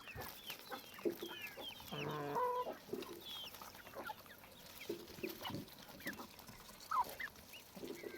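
Chickens clucking, with a louder drawn-out cluck about two seconds in and many short, high chirps scattered throughout.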